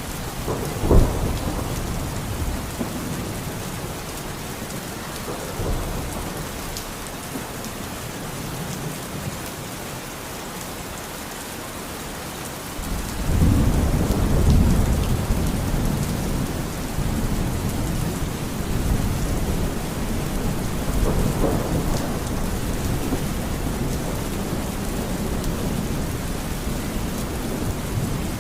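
Thunderstorm: steady heavy rain with a sharp crack of thunder about a second in, then a long, deep rumble of thunder about halfway through that slowly trails off under the rain.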